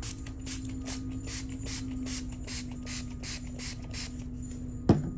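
A mixing brush swishing and scraping back and forth in a paint dish, stirring paint, in a steady rhythm of about three strokes a second. It ends in one sharp knock, the loudest sound here, just before the end.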